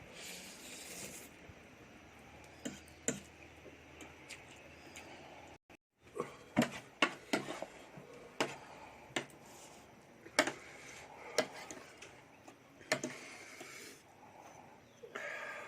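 Eating sounds: utensils clicking and tapping against a bowl or glass, scattered and irregular, thicker in the second half, with a brief dropout just before the middle.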